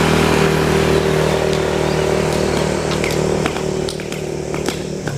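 A small engine running steadily at one speed, fading away from about three and a half seconds in; a few short sharp ticks follow near the end.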